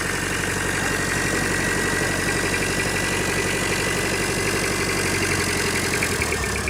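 Toyota 2L-T four-cylinder turbo-diesel engine of a 1992 Hilux Surf idling steadily, with an even, rhythmic beat.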